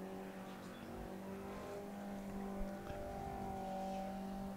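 Engine of a classic racing saloon running steadily at low speed, its even note swelling slightly as the car comes closer.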